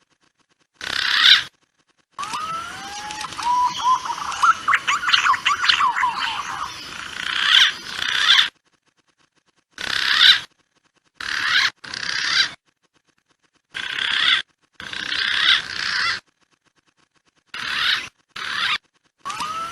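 Green pigeon (punai) lure calls: rising whistled glides and quick chattering notes in short bursts of a second or so, each one cut off abruptly into total silence, as in an edited, looped call recording.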